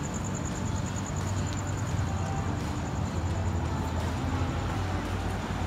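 Steady low rumble of an idling car engine over a general background hum.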